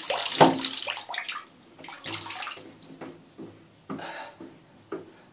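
Water running and splashing in a bath at a dismantled tap, heaviest in the first second and a half with one sharp splash or knock, then a few short scattered splashes and knocks.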